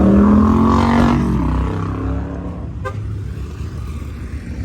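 A car engine revving up close by, its pitch rising gently for about a second over a low rumble before it drops away; steady engine and traffic noise continue after.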